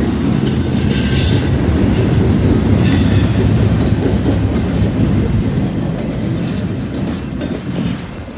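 Double-stack intermodal freight cars rolling slowly past, a steady heavy rumble of steel wheels on rail with repeated short high-pitched wheel squeals in the first few seconds. The rumble fades near the end as the tail of the train passes.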